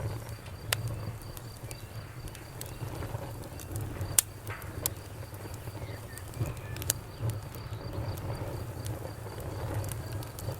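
Wood fire crackling, with a low rumble of flame and scattered sharp pops and snaps, a few of them loud.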